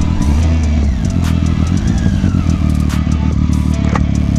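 A motor vehicle engine running steadily, heard from on board, with road noise and a few light clicks and rattles.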